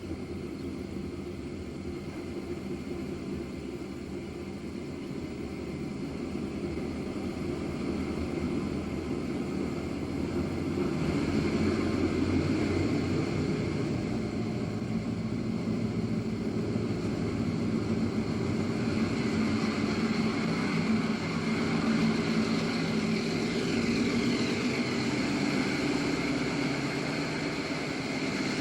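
Diesel locomotive engine running with a steady drone, growing louder about ten seconds in.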